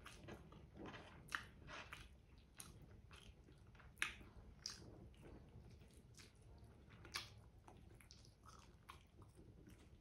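Close-miked eating: a person biting into and chewing a braised chicken drumstick with rice, giving quiet wet mouth clicks and smacks, with a few sharper clicks, the loudest about four seconds in.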